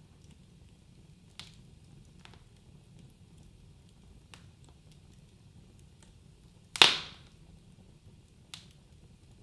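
Wood fire crackling in a fireplace: a few sparse, sharp pops over a low steady rumble, with one much louder snap about seven seconds in.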